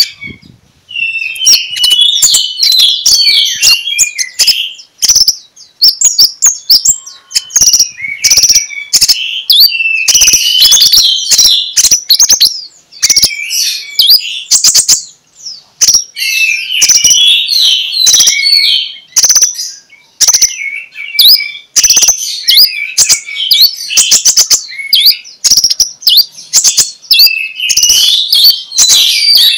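A kolibri ninja (konin) sunbird singing a loud, fast, high twittering song of rapid chirps and sharp clicks, in long phrases broken by short pauses.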